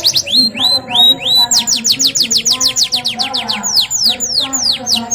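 Domestic canary singing: fast trills of sharply falling notes, about eight a second, broken by short rising whistled notes.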